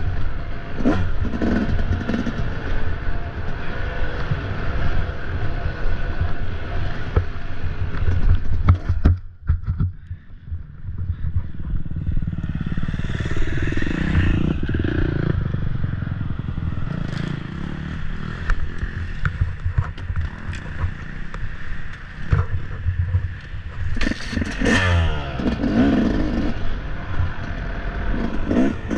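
Off-road dirt bike engine running hard and revving on and off the throttle, with clattering knocks and scrapes from rough terrain. The engine drops back briefly about nine seconds in, then picks up again, with rising and falling revs near the end.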